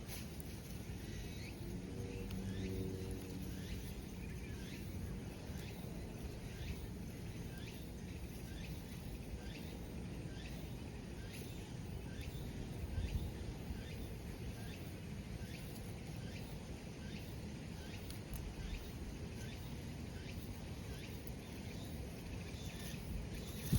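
Outdoor ambience with a low wind-like rumble and a short, high chirp from a small animal repeating steadily about every 0.7 seconds.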